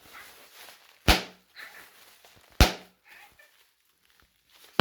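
Three sharp knocks about a second and a half apart, with faint rustling and handling noise between them.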